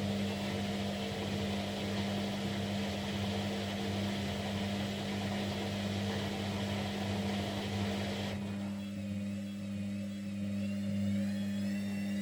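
Kunft washing machine running with a steady motor hum as the drum turns, a rushing noise over it at first, then a wavering whine; the motor stops abruptly at the end of the turn.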